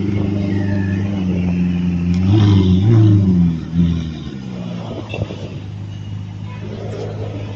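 Car engine running low and steady, revving up briefly about two to three seconds in, then dropping back and going quieter.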